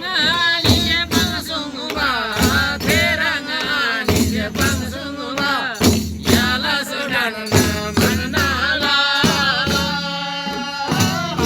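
A voice singing a folk melody with ornamented, wavering held notes, over a steady beat of struck percussion.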